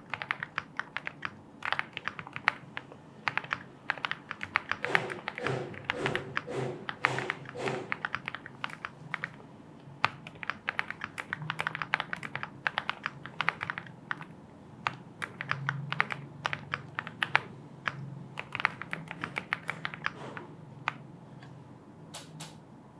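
Typing on a Lucky 65 aluminium-case mechanical keyboard: rapid, irregular key clacks, densest about five to eight seconds in, with the typing stopping shortly before the end.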